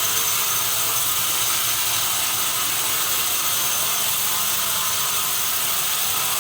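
Sawmill machinery running steadily: a bright, even noise at constant loudness, with no pauses or separate knocks.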